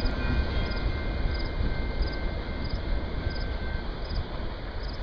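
Rumble of a long train of autorack freight cars rolling away over the rails, slowly fading as the tail end recedes, with a faint steady whine that stops about four seconds in.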